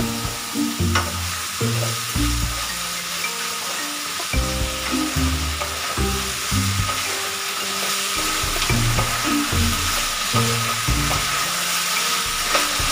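Potatoes, onion and tomato sizzling in oil in a karai over a gas flame, stirred with a wooden spatula, just after ginger-garlic paste has gone in. The sizzle is a steady hiss throughout.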